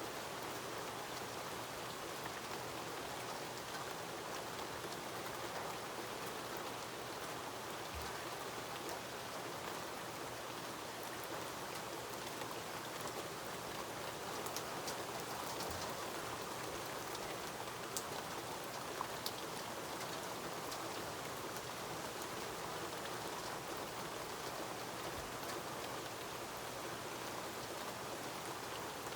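Steady rain falling, an even hiss with a few sharper drops ticking out in the middle.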